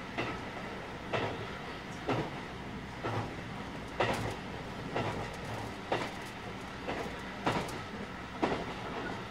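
Running sound inside a 223 series 2000-subseries electric multiple unit with Toshiba IGBT traction control: the wheels click over rail joints about once a second over a steady rumble, with faint steady tones underneath.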